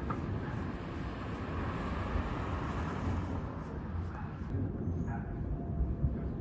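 Boeing 787-8 airliner jet engine noise: a steady low rumble with a rushing hiss that swells and then fades after about three seconds. A few short, sharp sounds come near the end.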